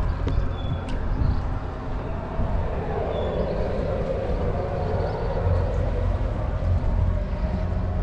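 A motor yacht's engine running steadily at low speed while the boat motors slowly away from the dock, a low hum with a rushing hiss that swells and fades in the middle.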